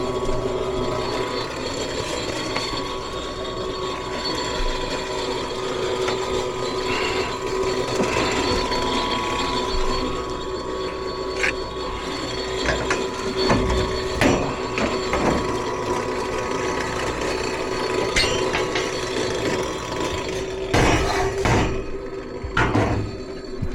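Furnace draft inducer motor running with a steady hum and a rough, irregular rattle, sounding like a diesel; the tech suspects the inducer wheel is damaged. A few louder knocks come near the end.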